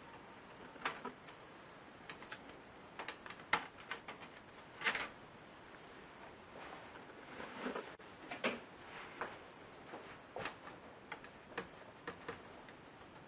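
Irregular small clicks and taps of laptop parts being handled during disassembly, with a brief soft scraping about halfway through.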